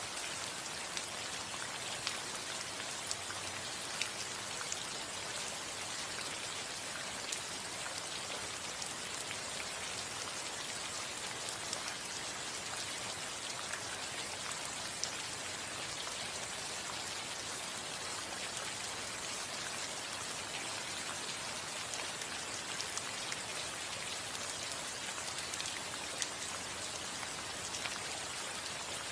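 Steady rain falling on a house roof, with scattered individual drops ticking through the even hiss of the downpour.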